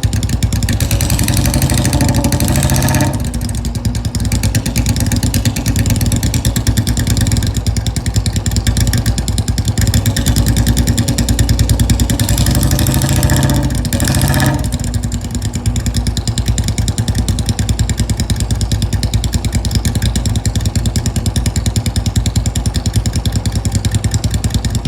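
Royal Enfield Bullet's single-cylinder engine idling with its steady thumping beat, revved twice for a couple of seconds each, about a second in and again around twelve seconds in, and dropping back to idle each time.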